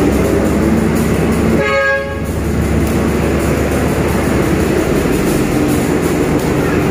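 Vintage tourist train's locomotive running steadily alongside the platform, with a short horn toot about two seconds in.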